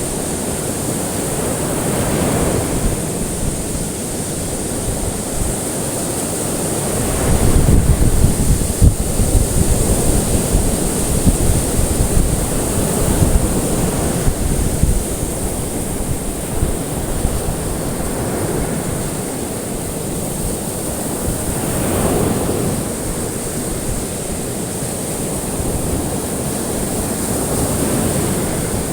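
Ocean waves breaking and washing onto shore, a steady surf wash that swells with a new wave every several seconds, strongest about a quarter of the way in.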